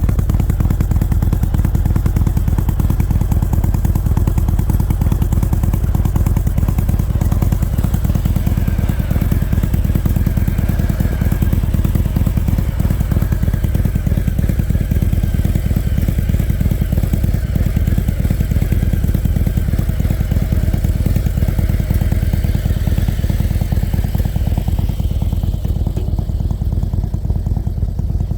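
Harley-Davidson Road Glide Special's Milwaukee-Eight V-twin, fitted with an SS 475 camshaft, running through Mutazu 2.0 megaphone slip-on mufflers: a loud, steady exhaust note made of rapid firing pulses. A higher hiss over it fades away near the end.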